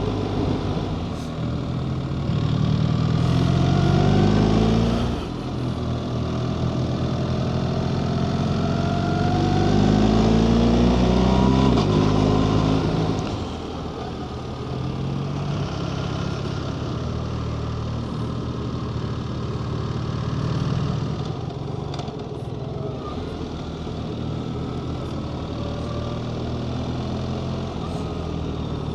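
BMW GS boxer-twin motorcycle engine on the move, pulling up in pitch twice with a drop between, then settling to a steadier, quieter cruise about halfway through, with wind and road noise throughout.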